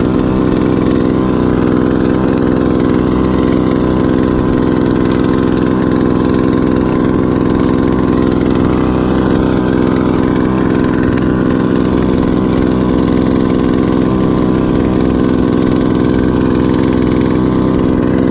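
Small 2-horsepower outboard motor running at a steady, unchanging speed while trolling.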